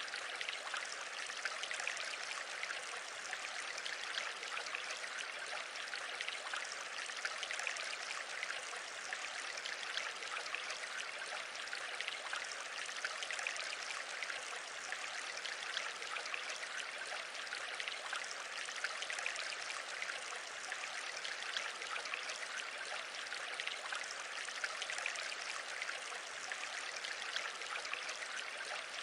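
Steady rushing noise that does not change.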